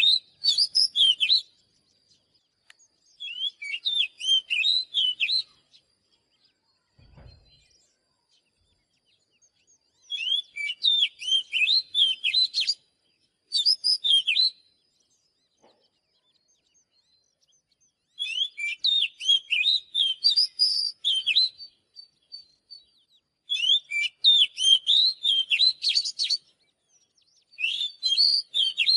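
Oriental magpie-robin singing: bursts of quick, varied whistled notes, each a few seconds long, repeated with short pauses between.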